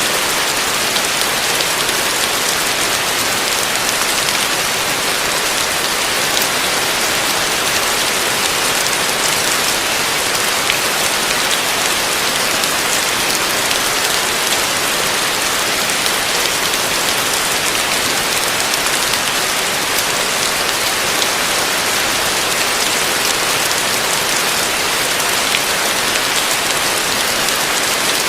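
Heavy rain falling steadily: a dense, even hiss made of countless drops, with no thunder.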